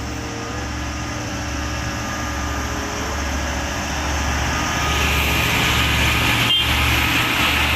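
Truck engine running steadily: a low rumble under a hiss, growing a little louder and brighter about five seconds in.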